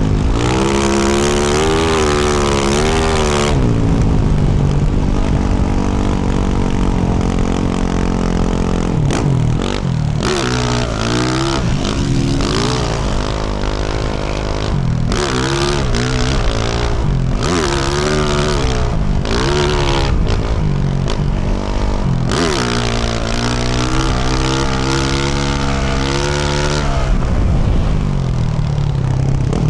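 Engine of a 2024 Yamaha YZ450F, a 450 cc single-cylinder four-stroke, running through a Yoshimura RS-12 exhaust as it is ridden on and off the throttle. The pitch holds steady for a few seconds, then rises and falls again and again through the middle. After that comes a longer run of high revs, which drops near the end.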